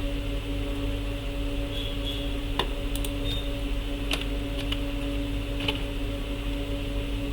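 A handful of scattered computer keyboard clicks, several seconds apart, over a steady electrical hum and hiss.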